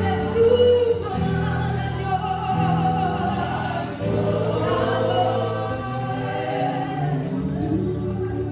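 Group of voices singing a gospel worship song, holding long sustained notes.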